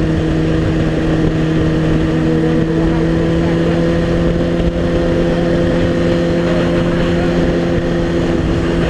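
Suzuki GSX-R sport motorcycle engine running at a steady speed under way, its note holding one pitch, over a steady rush of wind and road noise.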